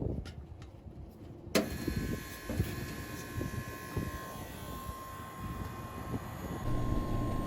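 A walk-in cooler's condensing unit running outdoors, with a steady whine. A sharp click comes about a second and a half in, and a low hum grows louder near the end.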